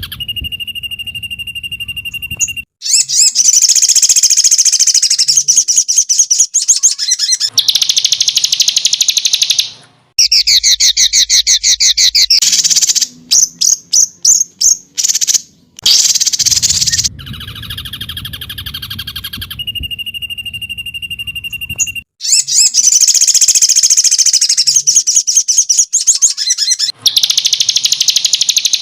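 Recorded songbird song played as a training track: loud, rapid, high-pitched trills and chattering phrases in blocks that stop abruptly. The same passage repeats about halfway through, as in a looped edit.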